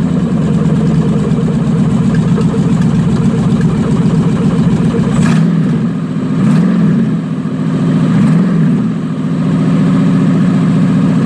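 Swapped-in V8 engine in a Chevy Astro van running steadily, revved briefly twice about halfway through, each time rising and falling back. A sharp click sounds about five seconds in. It is a test run of the engine on its newly fitted fuel pump rather than starter fluid.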